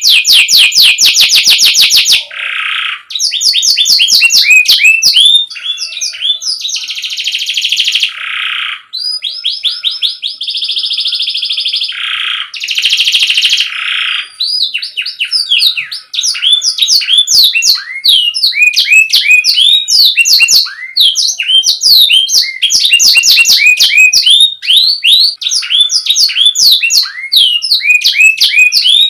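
Domestic canary singing a long, loud, continuous song: fast trills of sharp repeated notes alternating with held buzzy rolls, the rolls mostly in the first half.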